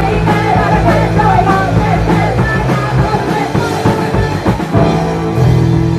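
Live rock band playing with a voice singing over guitars and drums; the singing drops away about three seconds in, and from about five seconds long held chords ring out.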